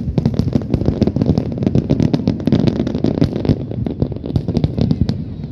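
Fireworks display in a dense barrage: rapid bangs and crackles, many per second, over a low rumbling background.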